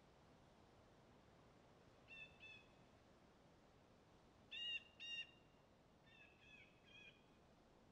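Faint bird calls over a quiet outdoor hush: two short notes about two seconds in, two louder ones around the middle, then a few softer notes.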